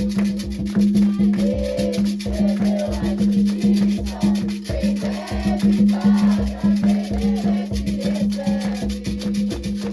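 Fast, dense hand-percussion drumming with a shaker, and voices singing over it: Afro-Brazilian religious music for the orixá Xangô.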